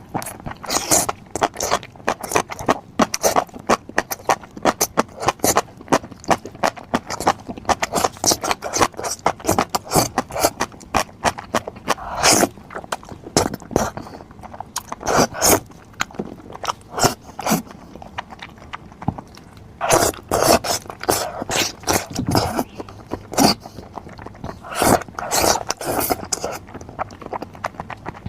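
Close-up eating sounds: rapid, irregular clicks, scrapes and crunches of food being chewed and handled, with a few louder clusters.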